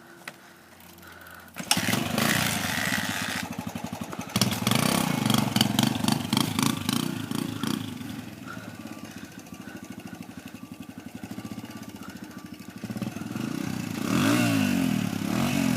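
Dirt bike engine starting about two seconds in and revved, then settling to a lower idle, then revved up and down again near the end.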